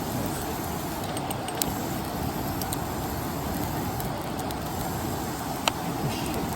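Wood campfire burning with a few sharp crackles and pops, over a steady rushing background noise.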